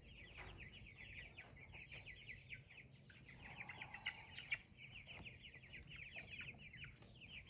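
Young Cornish Cross meat chickens peeping faintly, a flock's many short, falling chirps overlapping without a break.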